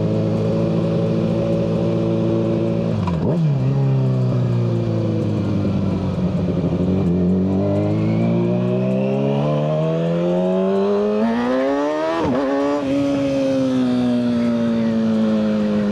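Kawasaki ZX-6R 636 inline-four running through a Yoshimura exhaust while being ridden. The revs hold steady, dip sharply and pick back up about three seconds in, climb slowly, dip sharply again around twelve seconds, then ease off gradually.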